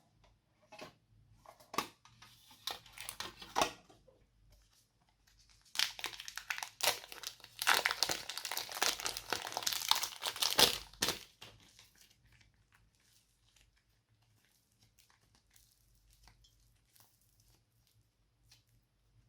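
Slime being squeezed and kneaded by hand, giving crinkly, crackling clicks. There are scattered clicks at first, then a dense, loud run of crackling in the middle that dies down to faint ticks.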